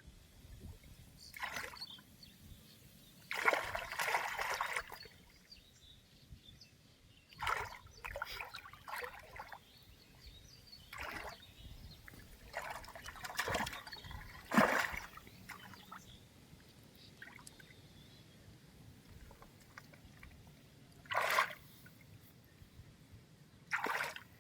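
Water splashing and trickling in separate short bursts, the longest about a third of the way in, with quieter stretches between.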